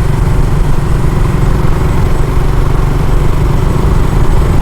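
Motorcycle running steadily at road speed, with heavy low wind rumble on the microphone.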